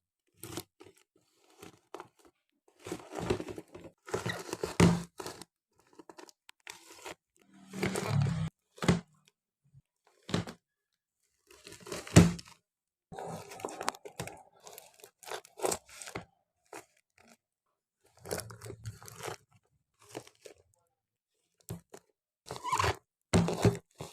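Handmade paper squishies, taped paper and plastic, being handled and sorted, crinkling and crunching in irregular bursts with short pauses between.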